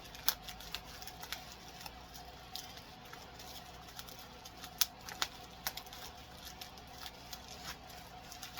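Scattered light clicks, taps and rustles of notebooks and their packaging being handled, with one sharper click about five seconds in.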